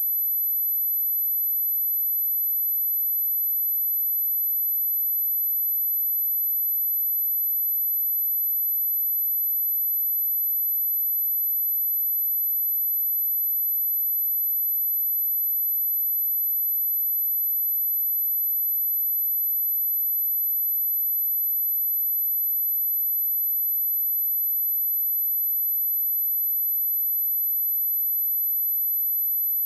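A pure 11984 Hz sine-wave test tone, a single steady high-pitched whistle at constant loudness, used as a speaker test and speaker-cleaning tone.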